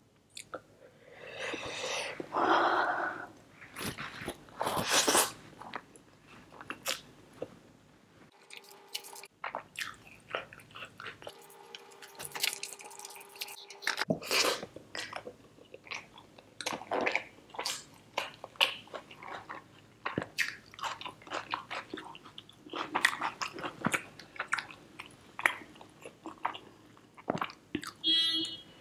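Close-miked chewing and mouth sounds of a person eating chicken biryani with her fingers: many short wet smacks and bites. There are louder handling noises about two and five seconds in.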